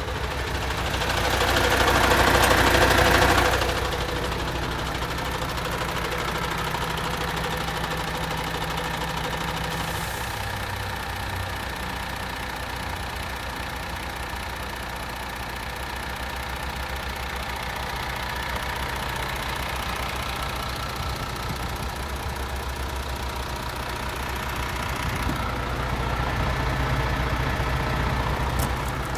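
MAN TGX 26.460 truck's 12.4-litre straight-six diesel idling steadily, with a loud hissing rush of noise about two seconds in. The engine note swells slightly near the end.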